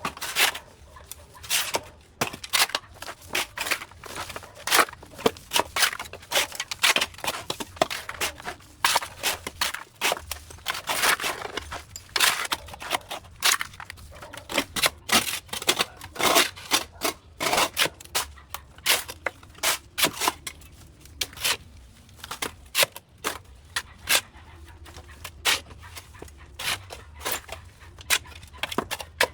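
An irregular run of sharp snips and cracks, several a second, with now and then a longer tearing rasp: overgrown vines and brush being cut and torn away.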